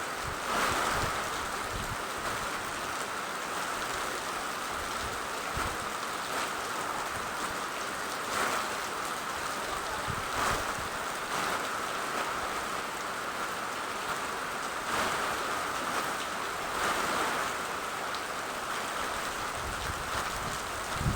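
Steady rain falling, a constant hiss with brief louder swells every few seconds.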